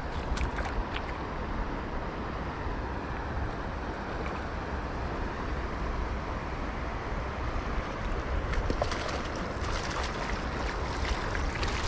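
Steady rushing of flowing river water, with a low rumble of wind on the microphone.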